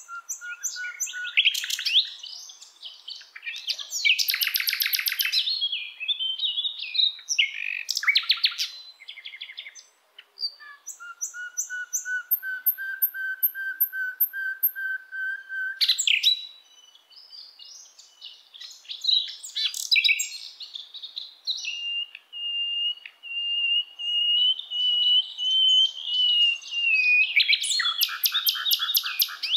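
A songbird singing continuously: bursts of rapid trills and chirps, with two long held notes, the second rising slightly just before it ends.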